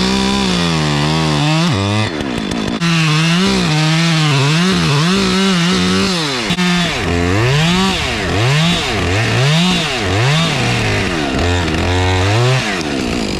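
Chainsaw engine revved up and down over and over as it cuts branches, with the pitch climbing under the throttle and dropping back between cuts about once a second in the second half.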